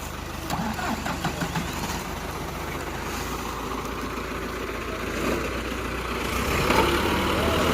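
Truck diesel engine idling steadily, its sound growing a little louder in the last few seconds.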